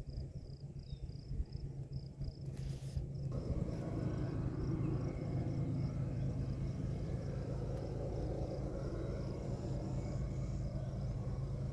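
Insects chirping in an even rhythm over a low, steady rumble of distant locomotives working up a steep grade. The rumble grows fuller about three and a half seconds in.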